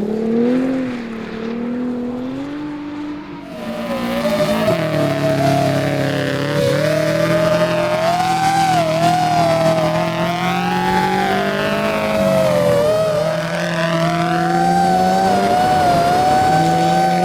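Rally car engine running hard at changing revs, its pitch rising and falling; it grows louder about four seconds in and then holds at high revs.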